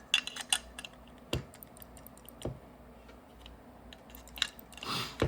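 Small sharp clicks and taps from handling small paintball-marker parts: a quick run of clicks at the start, then single taps every second or so, and a brief rustle near the end.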